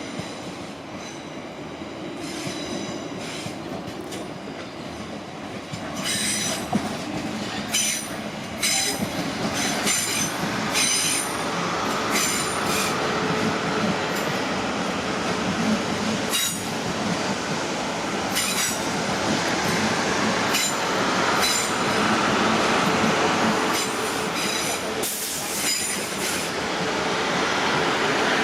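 Electric multiple-unit passenger train running through the station, with a steady rumble that grows louder and short high-pitched wheel squeals breaking in again and again.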